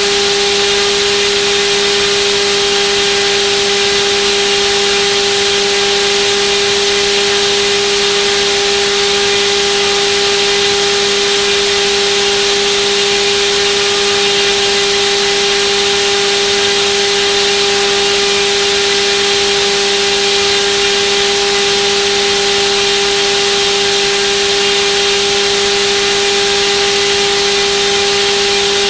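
Turnigy D2826/10 1400kV brushless outrunner motor spinning a propeller at a constant speed on a thrust test. It makes a steady hum with a constant rush of air, its pitch unchanging throughout.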